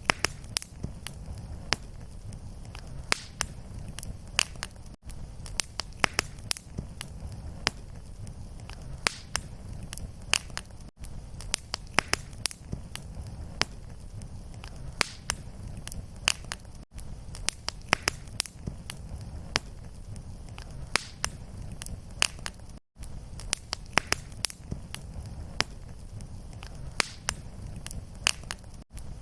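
Fireplace fire crackling: many sharp, irregular pops and snaps over a steady low rumble. The sound drops out briefly about every six seconds, where the short recording loops.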